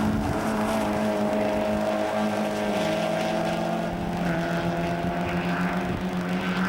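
Mazda MX-5 Cup race car engine running steadily, its pitch dropping a little about two and a half seconds in and then holding.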